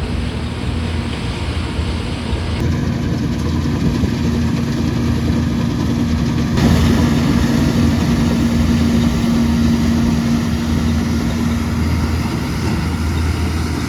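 Engine of a small trial-plot combine harvester running steadily, with a constant hum.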